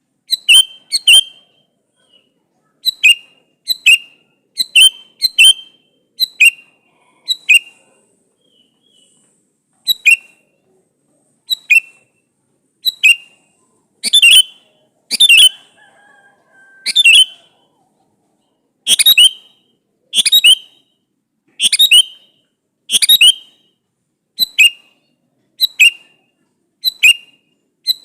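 Male sooty-headed bulbul (kutilang) calling: short, sharp notes repeated about once a second, some in quick pairs, with a short pause about eight seconds in. This is the male's call to a female.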